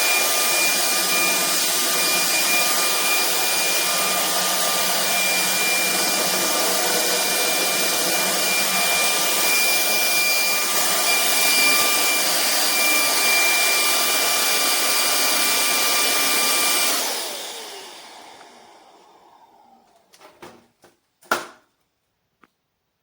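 Cordless stick vacuum cleaner (Vistefly V15s Max) running steadily with a high motor whine, then switched off about three-quarters of the way in and spinning down. A few light clicks and one sharper knock follow.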